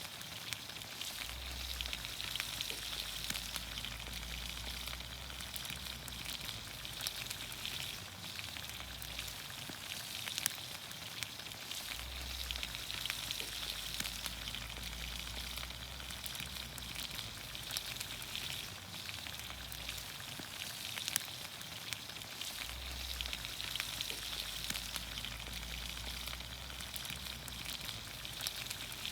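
Vegetables in olive oil steadily sizzling and steaming in a pan over a campfire, with scattered small pops and crackles.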